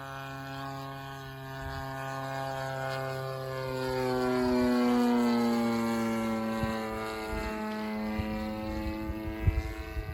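DLE 30 single-cylinder two-stroke gasoline engine of a radio-controlled model aerobatic biplane running in flight with its propeller. The buzz grows louder as the plane passes, peaks about halfway through, then fades with its pitch dropping slightly. A few low thumps come near the end.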